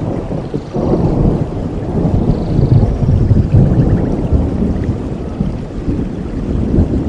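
Low rolling rumble of thunder that swells about a second in and slowly eases, over steady rain falling in a forest.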